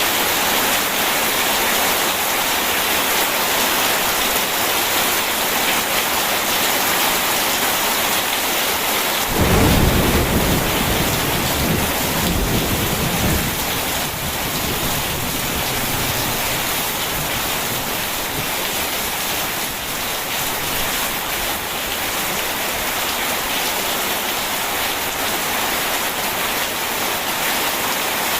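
Steady heavy rain, with a roll of thunder breaking in about nine seconds in and rumbling away over the next few seconds.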